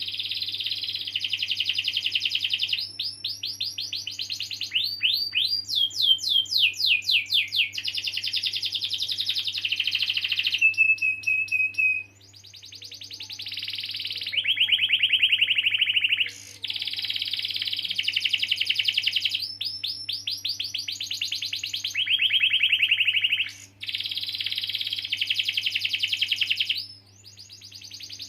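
Domestic canary singing a long, rolling song: fast trills of rapidly repeated notes that switch between patterns, with some falling sweeps and a held note, and brief breaks about twelve seconds in and a few times later.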